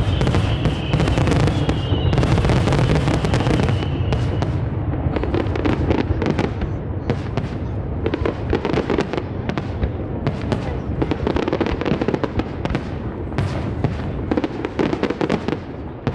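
Aerial fireworks display: a dense, continuous crackle of bursting shells and rapid pops, with heavy booms in the first few seconds. A high whistling tone sounds over the first four seconds, falling slightly in pitch.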